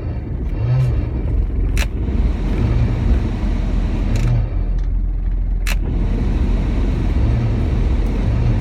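Abnormal whining noise in a 100-series Toyota HiAce van with the heater on just after start-up: a low hum that swells and fades every second or two, a repeating 'ween, ween', over the steady rumble of the running engine, with two sharp clicks. The noise shows at start-up with the heater on and goes away after a while of driving; the owner suspects it comes from a motor.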